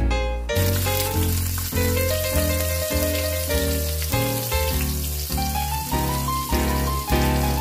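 Hot oil sizzling in a pan with tempering spices and chopped onion and garlic, a steady hiss that starts about half a second in. Background music with bass notes plays throughout.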